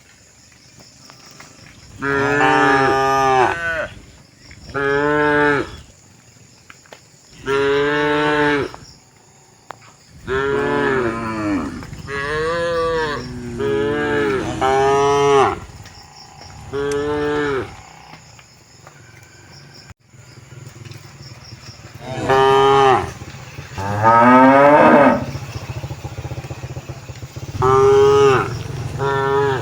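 Cattle mooing repeatedly: about ten long, drawn-out moos of one to two seconds each, with short pauses between them.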